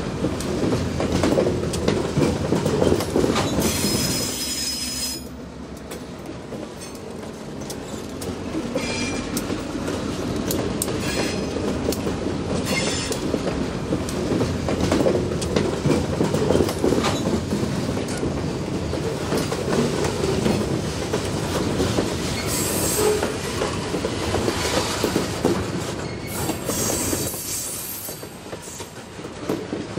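Freight cars rolling past: a steady rumble of steel wheels on rail with many small clicks and knocks. A short, high wheel squeal comes about four seconds in. The sound drops for a few seconds after that and again near the end.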